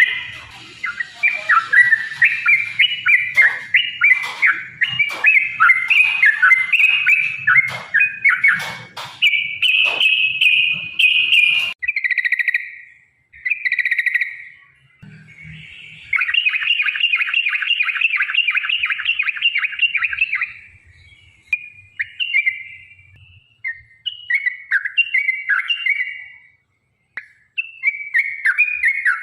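Yellow-vented bulbul (trucukan) singing loud, bubbly chattering phrases. About halfway through comes a long, fast rattling run of notes, and after it shorter broken phrases with brief pauses.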